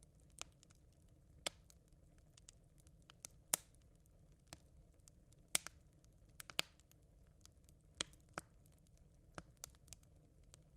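Smouldering campfire embers crackling: sparse, irregular sharp pops and ticks, a few a second, over a faint low background noise. The loudest pops come about three and a half and five and a half seconds in.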